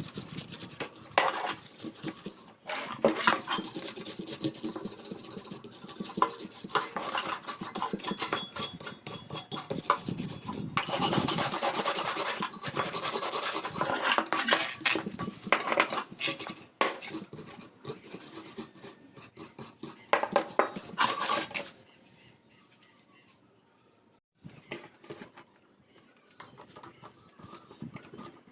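Rasping, scraping hand work, full of small clicks, that stops about 22 seconds in. A few light clicks and knocks follow.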